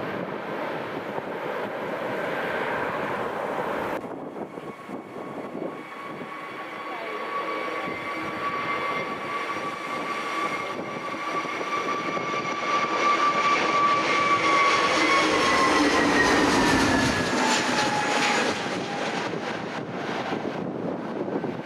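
Jet airliner passing close by: a steady engine whine under a rush of noise that grows louder, then drops in pitch as the aircraft goes past. The sound changes abruptly about four seconds in.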